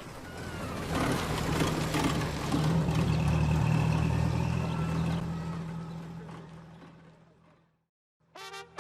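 A low, engine-like rumble with a steady drone underneath, swelling about a second in and slowly fading away to silence near the end, as the recorded track fades out.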